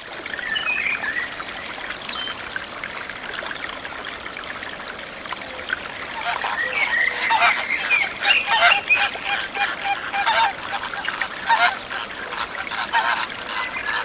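A flock of water birds calling, many short overlapping calls, growing busier and louder about halfway through.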